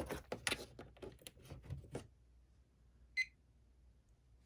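A quick run of small clicks and knocks from handling a cheap LED alarm clock and its packaging, then a single short electronic beep from the clock about three seconds in.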